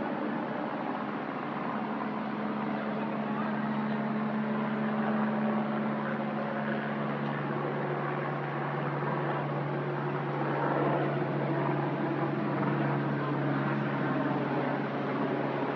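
A steady low hum under an even hiss, with its upper tone fading about seven seconds in.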